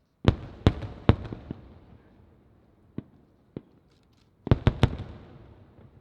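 Aerial firework shells bursting in the sky. Three loud booms come in quick succession near the start, two smaller pops follow in the middle, and another quick volley of three booms comes near the end, each echoing away.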